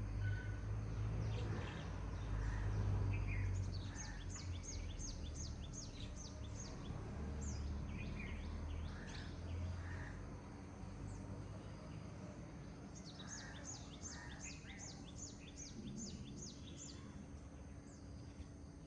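A songbird sings two long phrases of rapid, high, falling notes, about four a second. Other birds call softly, over a low rumble that is stronger in the first half.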